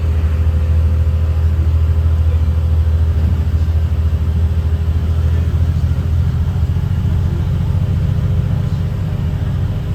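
Caterpillar C7 inline-six diesel of a Blue Bird Vision school bus running as the bus drives, heard inside the cabin as a steady low rumble with a faint steady whine above it.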